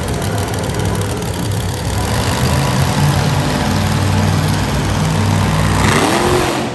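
Monster truck engine running steadily in an arena, revving up and back down about six seconds in.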